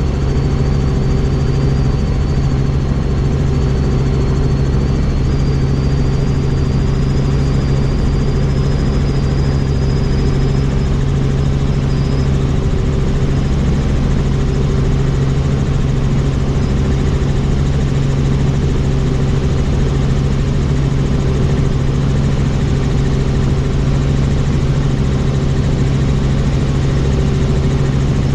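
Helicopter's turbine engine and rotor running steadily and loudly, heard from on board. A faint high whine rises slightly over the first dozen seconds, then fades.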